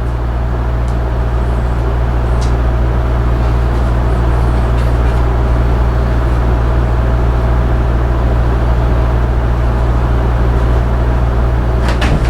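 A loud, steady low motor hum that holds the same pitch without change.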